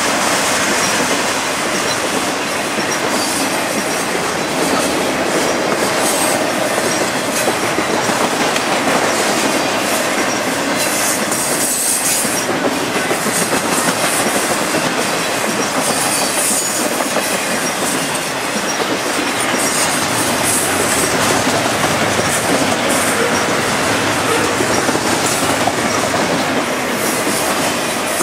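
Double-stack intermodal freight cars rolling past: a steady rumble and clatter of steel wheels on the rails, with brief high-pitched wheel squeal a few times.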